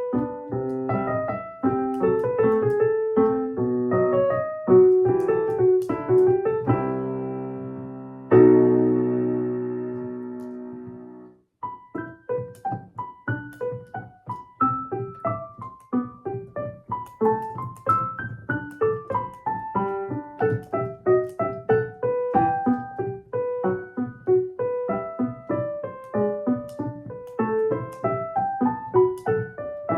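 Solo piano playing a light melody of quick notes. About eight seconds in, a chord is struck and left to ring until it fades away, followed by a brief silence, and then a run of quick repeated notes begins.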